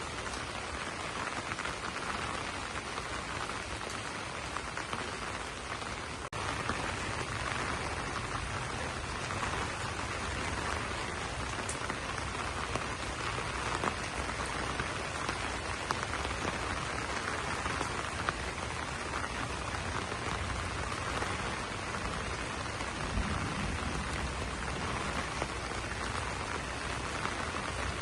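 Steady rain falling on broad banana leaves, an even hiss of drops with scattered louder individual drop hits.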